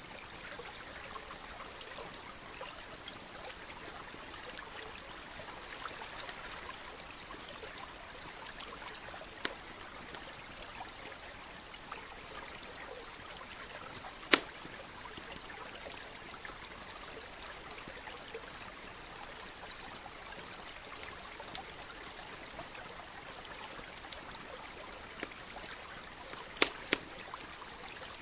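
Campfire crackling, with scattered sharp pops and snaps, the loudest about halfway through and two more close together near the end, over the steady rush of a running stream.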